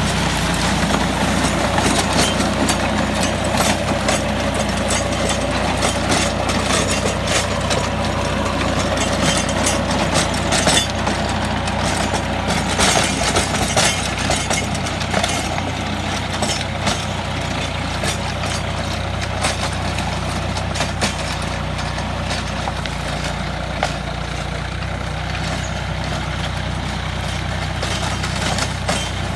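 Tractor diesel engine running steadily while driving a rotary tiller, with frequent sharp clicks and knocks over the engine's steady drone.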